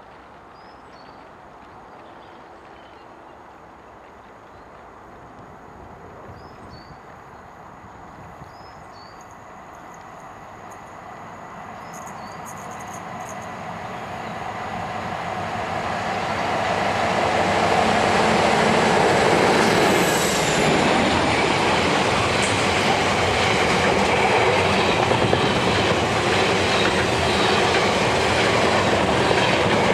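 A Class 47 diesel locomotive with a Sulzer twelve-cylinder engine hauling a freight train, approaching and growing steadily louder. It is loudest as it passes at around eighteen seconds, and then a long rake of freight wagons rumbles and clatters by.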